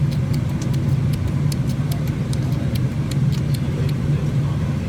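Steady low hum of an airliner cabin on the ground before takeoff, with a scatter of faint, quick high clicks.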